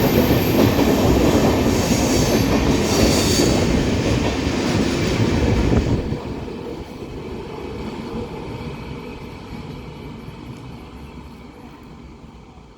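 A train passing close by, its wheels and coaches rumbling loudly, with a thin high squeal from the wheels in the first few seconds. About six seconds in the noise drops suddenly as the end of the train goes by, then fades away steadily.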